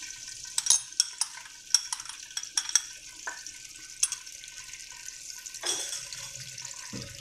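Ginger-garlic paste thinned with chicken stock sizzling in hot oil in a pan, a steady high hiss. In the first few seconds a metal spoon clinks sharply several times against a glass bowl and the pan as the last of the paste is scraped in.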